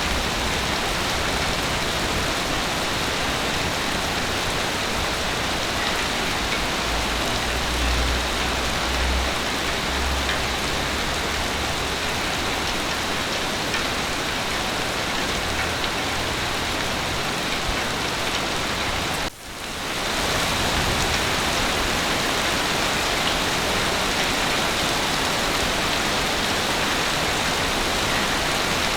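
Heavy rain falling steadily, an even hiss of drops. A low rumble swells for a few seconds near the start, and about two-thirds of the way through the sound cuts out for a moment and fades back in.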